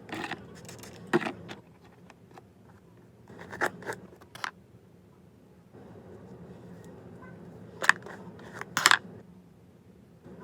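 Several short scrapes and clicks close to the microphone in three small clusters, over a steady low hum.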